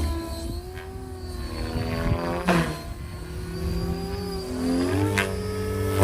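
Electric Oxy-5 RC helicopter in flight: a motor and rotor whine that rises and falls in pitch, with two quick swoops about two and a half and five seconds in as it passes close by.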